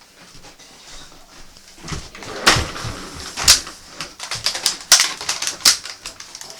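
A run of irregular sharp knocks and clatters starting about two seconds in, several of them loud, with quieter scuffling between them.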